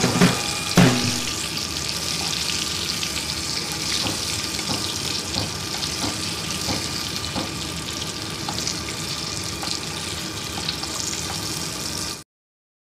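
Eggplant slices coated in turmeric sizzling steadily as they shallow-fry in hot oil, with a metal spatula knocking against the pan, loudest about a second in. The sound cuts off suddenly near the end.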